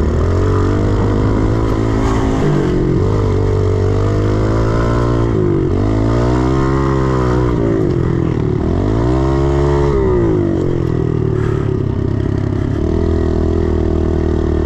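110cc single-cylinder four-stroke pit bike engine under riding load, its pitch rising and falling as the throttle is opened and closed. Two long swells of revs come in the middle, then it settles to a steadier, lower pitch near the end.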